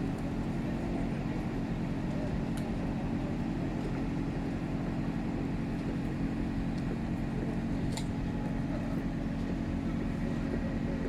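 Engine of heavy machinery running steadily with a low, even hum, with a couple of faint ticks.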